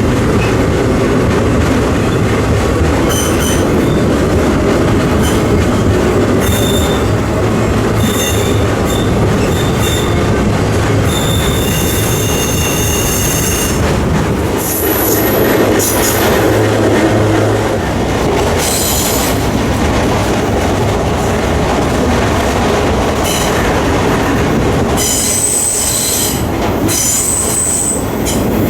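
Freight train rolling: a steady, loud rumble of wheels on rails, with short high-pitched wheel squeals coming and going, most clearly about twelve seconds in and again near the end.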